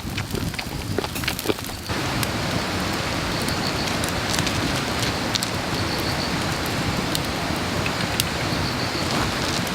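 Wood fire burning: a steady hiss with scattered sharp crackles and pops, which sets in abruptly about two seconds in.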